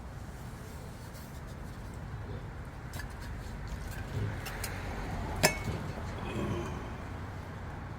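Steady low background rumble with a few small clicks and clinks, the sharpest about five and a half seconds in.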